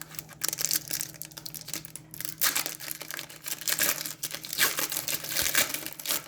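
A hockey card pack's wrapper crinkling and being torn open by hand, in irregular bursts.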